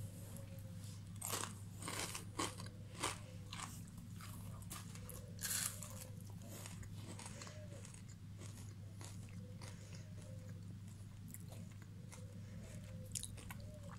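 Crispy deep-fried potato rings being bitten and chewed: a run of dry crunches scattered through, the loudest about five and a half seconds in, over a low steady hum.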